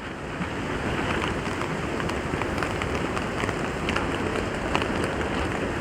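Steady rain with wind, swelling slightly in the first second, with scattered heavier drops tapping now and then.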